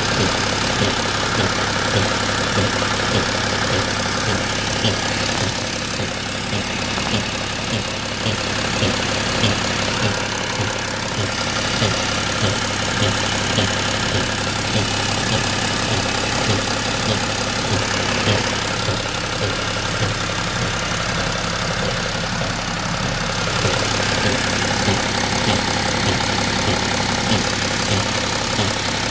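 BMW M57N2 3.0-litre straight-six common-rail turbodiesel running steadily with a regular beat of light knocks. It has an extra noise from the intake-manifold area, with the swirl flaps removed, which the owner suspects could be the swirl-flap vacuum actuator and its linkage.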